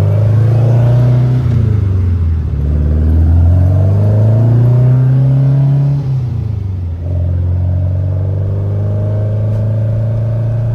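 Air-cooled VW flat-four, a 1904cc stroker, accelerating under load through the gears. The pitch climbs, drops at an upshift about a second and a half in, climbs again, drops at a second upshift about six seconds in, then pulls steadily in the higher gear.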